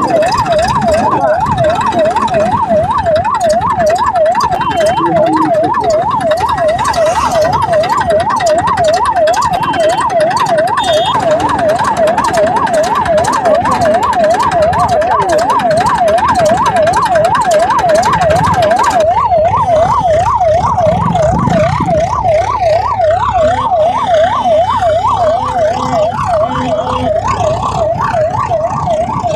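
Electronic siren with a rapid up-and-down yelp, sweeping between a lower and a higher pitch about three times a second, over continuous background noise.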